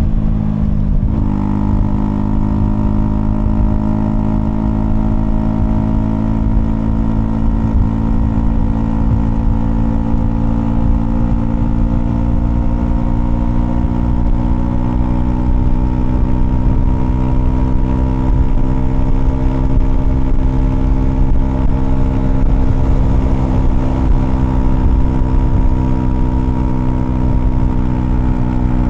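Honda CL250's single-cylinder engine running steadily under way. The note breaks briefly about a second in, then climbs slowly in pitch as the bike gathers speed and eases off a little near the end.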